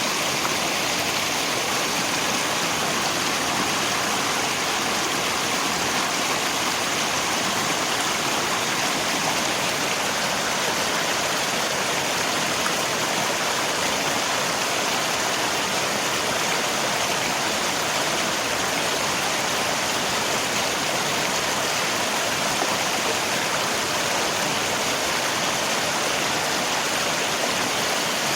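River water flowing with rain falling: a steady, even rush of water.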